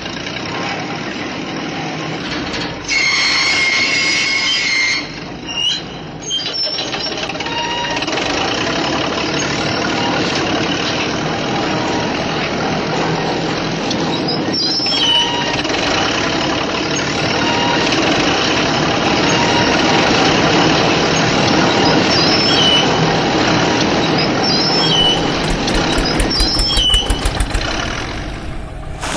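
Steady truck-like vehicle engine noise, with a brief high horn-like tone about three seconds in and a fast, even rattle building near the end.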